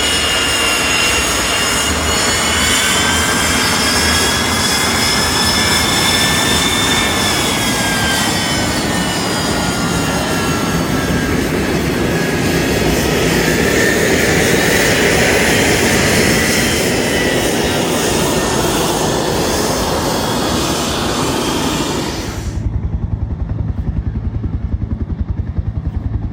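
Aircraft engine running loud and steady, with a high whine that drifts slowly up and down in pitch. About 22 seconds in the whine cuts off abruptly, leaving a low, fast, even engine pulsing.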